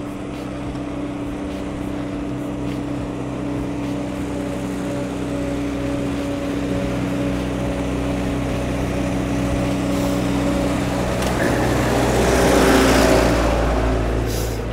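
A motor vehicle's engine running with a steady hum, then growing louder and noisier as it passes close by about twelve to thirteen seconds in, before easing off.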